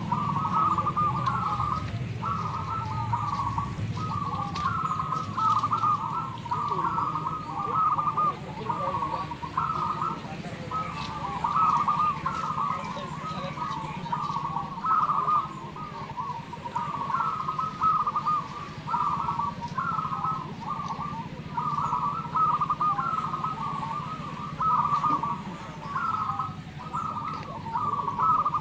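Many zebra doves (perkutut) cooing at once, their rapid trilled coos overlapping into an unbroken chorus. A low steady rumble runs underneath.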